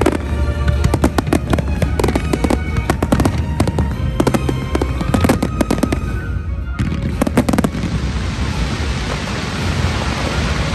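Fireworks display: rapid bangs of aerial shells bursting for about the first seven seconds. The bangs then give way to a dense, steady hiss as a row of ground fountains sprays sparks.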